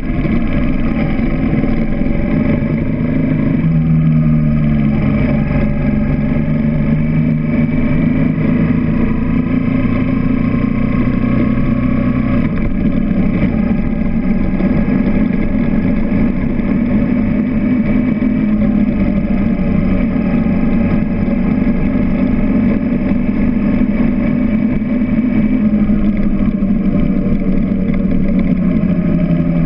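Motorcycle engine running while riding, recorded close up from the bike, its pitch rising and falling several times with the throttle.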